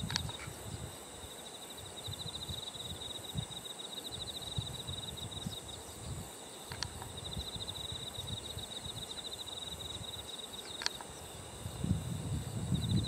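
Insects trilling in long, rapidly pulsed phrases over a steady high-pitched drone of other insects, with a few brief sharp chirps and a low rumble near the end.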